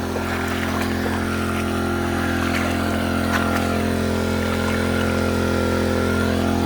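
Small gasoline engine of a Keene gold suction dredge running steadily at constant speed, driving its pump.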